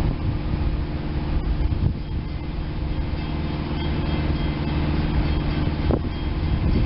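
SEPTA Silverliner IV electric train approaching in the distance, heard as a steady low rumble; a faint thin high whine joins about halfway through.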